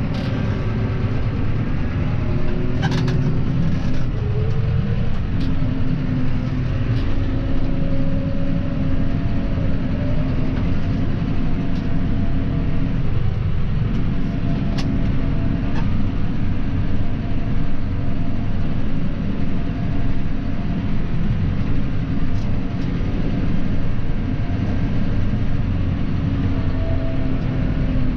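Claas Arion 530 tractor's diesel engine running steadily, with a constant drone and a tone that wavers slightly in pitch now and then. A few short sharp clicks or rattles come through at scattered moments.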